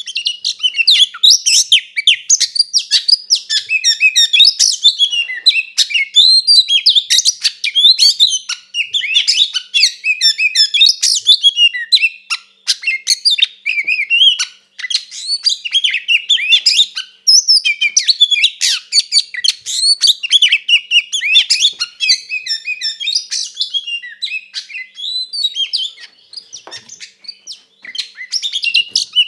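Oriental magpie-robin (kacer) singing a fast, nearly unbroken run of varied high whistles and chirps, with a few brief pauses. This is the loud, agitated fighting song that keepers call 'gacor ngeplong tarung'.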